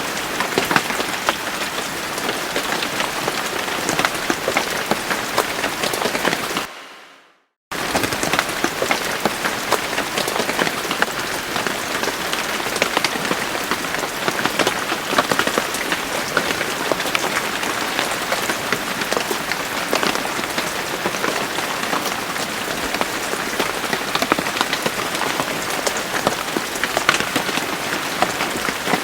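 Steady rain falling on a surface, with many individual drop hits. About a quarter of the way in, the rain fades out to silence for about a second and then cuts back in abruptly.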